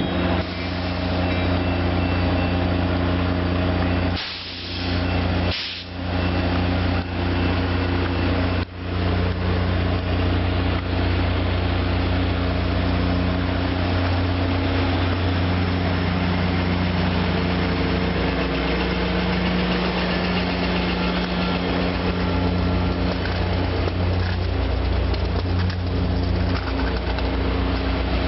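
Diesel locomotive engine running, a loud, steady deep drone with a few brief dips in the first nine seconds.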